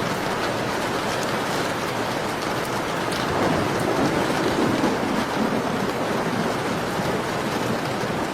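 Steady heavy rainfall, a dense even hiss of falling rain. A low rumble swells up a little about halfway through and fades again.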